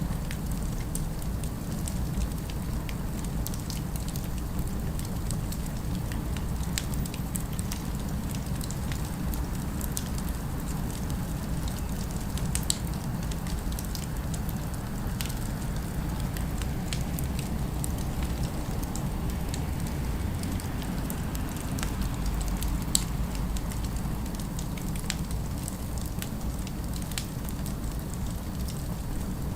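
Fireplace crackling with scattered sharp pops over a steady low rumble.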